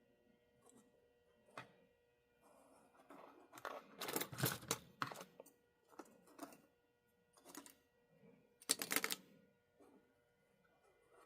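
Small parts and tools handled on a workbench during model-locomotive disassembly: scattered light clicks and short rustling, scraping bursts, the loudest a little before the middle and again about three quarters through.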